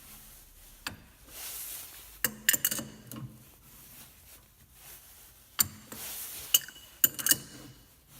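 Sharp metallic clinks and knocks with a short ring: small steel parts and hand tools being handled and set down on metal. The clinks come in a few scattered clusters, the loudest about two and a half, five and a half and seven seconds in.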